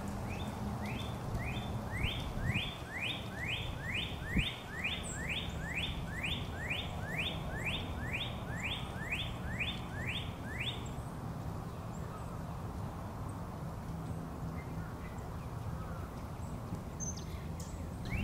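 A songbird singing a long series of rising whistled notes, about two a second, which stops about eleven seconds in, over a steady low background rumble.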